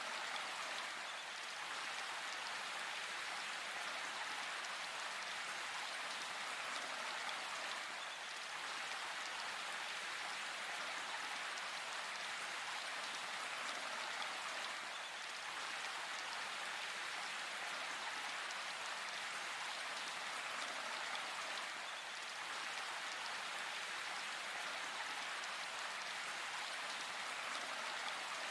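Steady rainfall, an even patter of many drops without pause or change.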